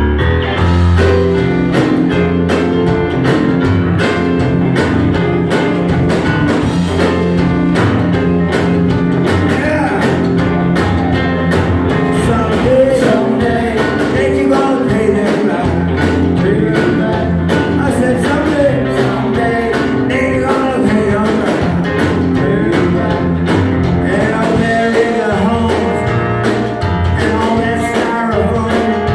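Rock band playing live, with guitar, bass and drums and a voice singing; the full band comes in right at the start.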